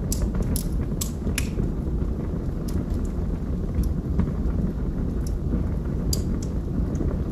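Log fire burning in a fireplace: a steady low rumble of flames with sharp crackles and pops from the burning wood. The pops come several close together in the first second and a half, then a few more spread out.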